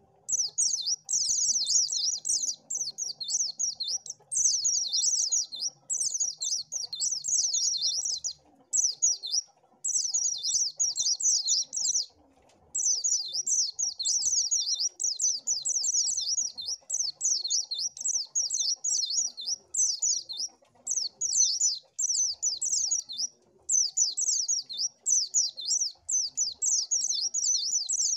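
White-eye (pleci) singing: rapid, high twittering phrases of a few seconds each, broken by brief pauses.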